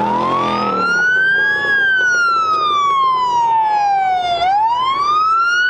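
Police car siren wailing. The pitch climbs for about a second and a half, falls slowly for about three seconds, then climbs again near the end.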